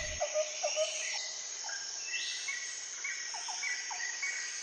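Nature ambience: a steady high cricket trill with small birds chirping in short repeated calls.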